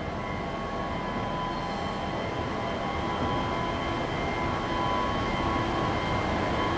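Steady noise inside a Deutsche Bahn double-decker regional train coach: a constant rumble with a steady high whine over it.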